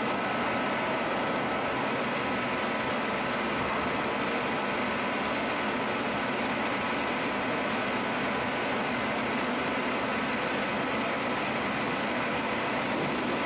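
C.R. Onsrud CNC router with a 16 HP spindle running steadily: a constant rushing machine noise with a thin, steady whine over it.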